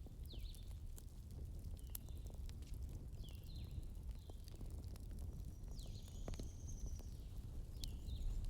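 Outdoor nature ambience: short chirping calls that repeat every second or so, one longer, higher call about six seconds in, and scattered sharp clicks over a steady low rumble.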